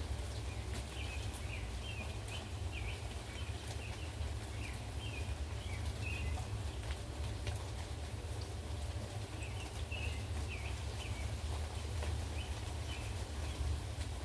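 Rain falling steadily with scattered drips ticking, over a constant low rumble of wind. A bird chirps in two short spells, about half a second in and again around ten seconds in.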